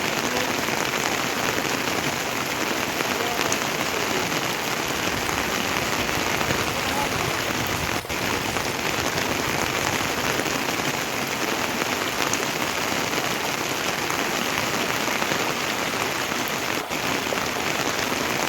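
Heavy rain falling steadily, a dense even hiss, broken by two momentary dips in level.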